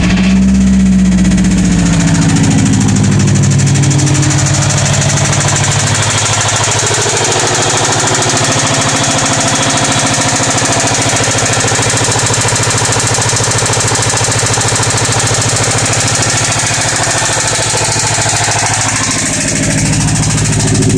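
A 2004 Subaru Forester XT's turbocharged flat-four idling just after a cold start, with a knocking that the owner cannot explain. The idle is higher at first and settles after about six seconds.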